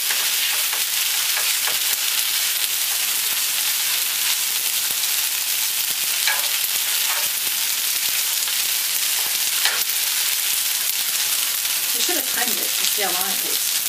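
Wide rice noodles and broccoli sizzling steadily in a nonstick frying pan, stir-fried with a spatula for pad see ew.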